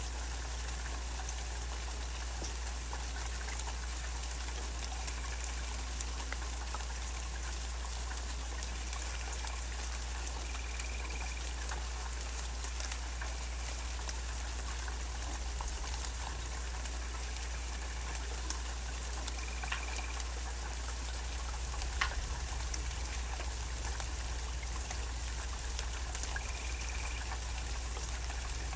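Steady rain falling, with many individual drops ticking and dripping over a constant low rumble. Faint short bird notes sound now and then through the rain.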